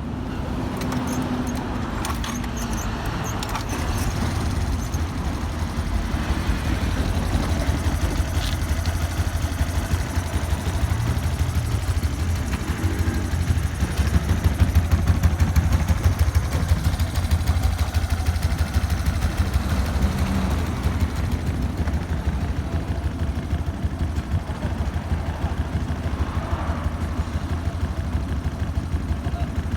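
Suzuki Address V125G scooter's 125 cc single-cylinder four-stroke engine idling steadily.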